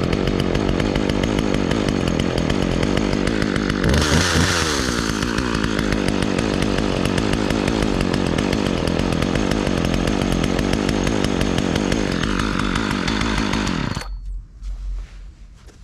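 1996 Husqvarna 36 two-stroke chainsaw running, revved briefly about four seconds in and dropping back to idle, then cutting off suddenly near the end. The saw had sat unused for a long time and is running again.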